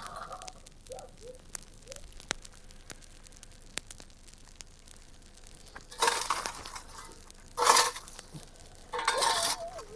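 Three bursts of crinkling, tearing-like rustle in the second half, the middle one loudest, over scattered faint clicks; a wavering tone starts near the end.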